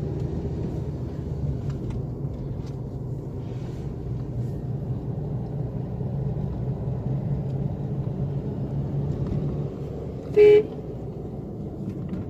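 A Chevrolet Optra being driven, its engine and road noise making a steady low drone with no stumbling or jerking, now that the failed ignition coil behind its misfire has been replaced. A short, loud car-horn toot about ten seconds in.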